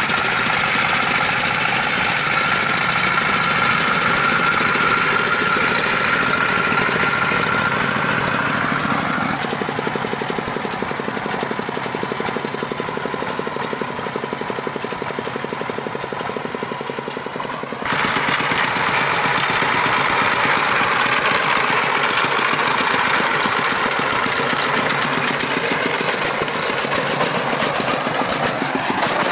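Farm truck engine running steadily with a fast, even chugging. About eighteen seconds in, the sound abruptly turns louder and brighter.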